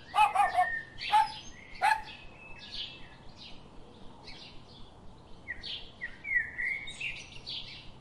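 A dog barks a few times in the first two seconds, then birds chirp and call with short high tweets and brief gliding whistles.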